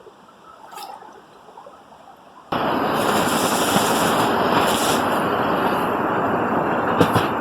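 Low, quiet background with a faint click about a second in, then about two and a half seconds in a sudden jump to loud, steady rushing storm wind and rain. A sharp knock comes near the end.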